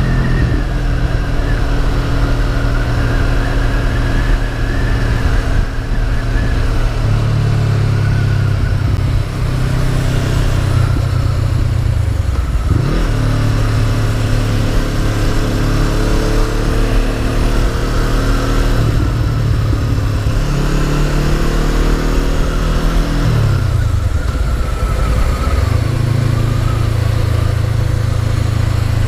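Honda CB500F's parallel-twin engine running while riding, with wind noise over it. The engine note steadies between two brief changes: a quick dip and recovery about halfway through, and a longer fall and climb back near the end.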